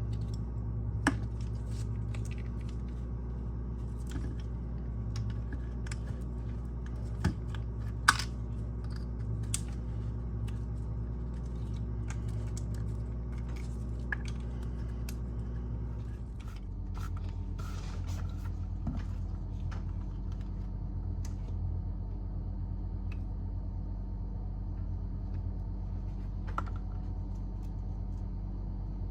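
Scattered light clicks and taps of small parts being handled, over a steady low hum that changes its pitch about halfway through.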